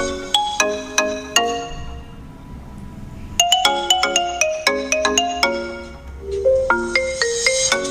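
Background music: a light, bright melody of quick mallet-struck notes like a marimba or ringtone tune. It drops away for about a second and a half about two seconds in, then picks up again.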